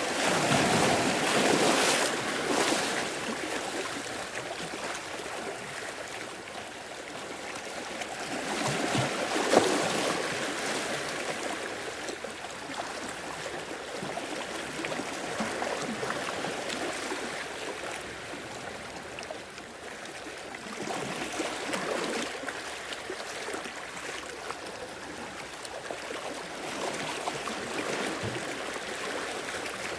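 Sea waves washing in and drawing back, a steady rush of surf that swells several times, loudest at the start and again about a third of the way in.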